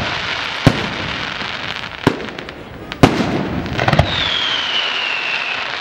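Aerial fireworks shells bursting in a display: about five sharp bangs, the last two close together near four seconds in, over a steady crackle of falling sparks. From about four seconds in, a whistle sounds, falling slowly in pitch.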